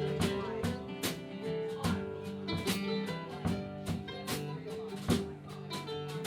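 Live country band playing an instrumental break: guitar over a steady drum-kit beat.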